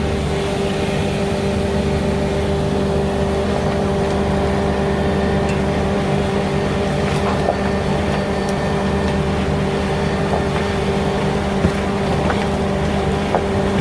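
Engine of heavy digging machinery running at a steady speed, with a constant hum over its low rumble. A few sharp knocks come near the end.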